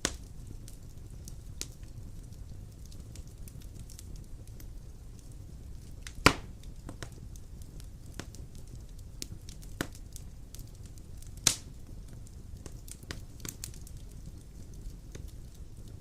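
Wood fire burning in a fireplace: a steady low rumble of flames with scattered crackles and a few loud pops, the loudest about six seconds in and another near twelve seconds.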